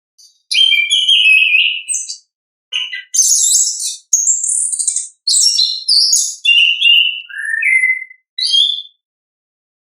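Chestnut-capped thrush (anis kembang) singing in full 'ngeplong' style: a rapid string of about eight short, high-pitched phrases of chirps, trills and sweeping whistled notes, separated by brief pauses.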